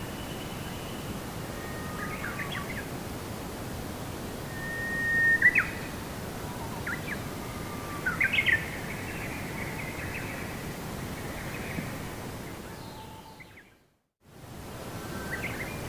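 Birds chirping and whistling in short, scattered calls over a steady low background noise. Near the end the whole sound fades to silence for about a second and comes back.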